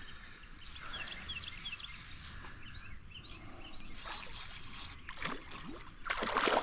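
Water lapping and trickling while a hooked fish is played, with a louder burst of splashing about six seconds in. Birds chirp faintly.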